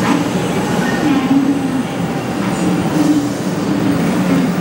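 500 series Shinkansen train rolling slowly into the station platform: a steady rumble of wheels and running gear.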